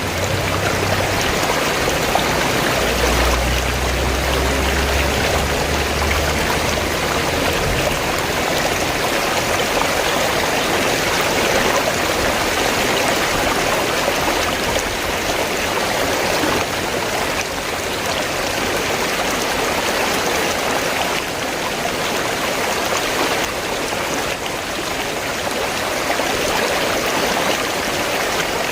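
River water rushing steadily, an even wash of flowing-water noise, with a low rumble underneath for the first few seconds.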